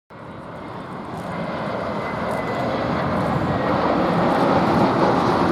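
Jet airliner's engines approaching, a broad rushing noise that grows steadily louder, with a faint high whine partway through.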